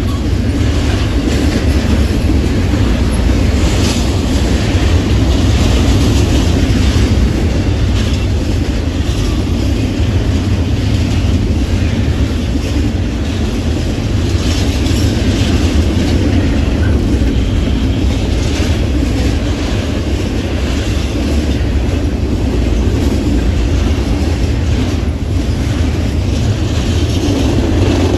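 Double-stack intermodal freight train's container well cars rolling past close by: a steady heavy rumble with wheels clicking over the rail joints.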